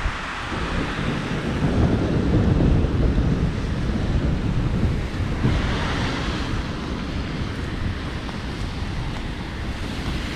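Heavy rain pouring in a thunderstorm, with a low rumble of thunder that swells about two seconds in and fades away over the next few seconds.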